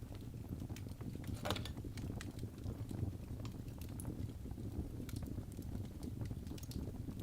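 Log fire burning in a fireplace: a steady low rumble of flames with scattered crackles and pops, and a louder crackle about a second and a half in.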